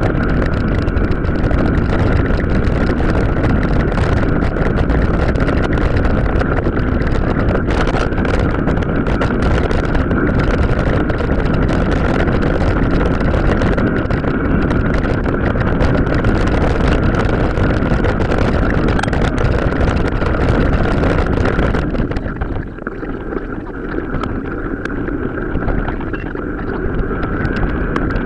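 Wind buffeting the microphone and the rattle and knocks of a mountain bike riding over a rough off-road trail, with a steady high whine underneath. About two-thirds of the way through it eases and turns duller for a few seconds, then builds again.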